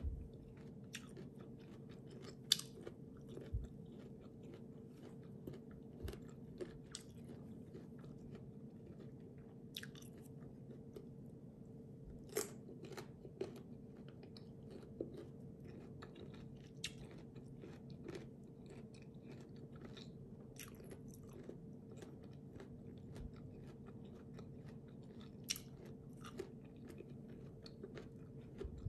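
Faint, irregular crunching and chewing of crisp unripe green mango slices.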